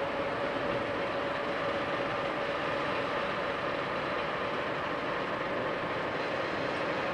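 Sagano Scenic Railway trolley train running, a steady rolling noise with one held tone running through it.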